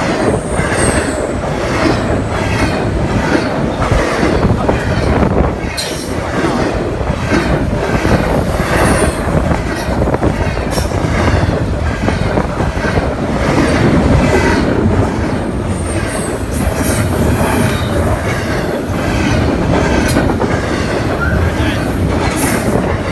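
Long intermodal freight train rolling past: wheels clacking over the rail joints in a steady rhythm, about twice a second, over a continuous rumble, with brief high-pitched wheel squeals now and then.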